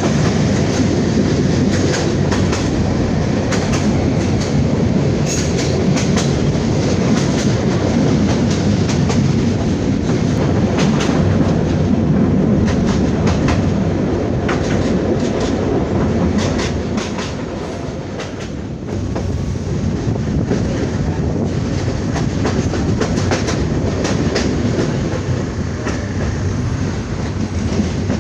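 Jamalpur Express passenger train running on the rails: a steady rumble with irregular clicks of the wheels over rail joints, easing off briefly about two-thirds of the way through.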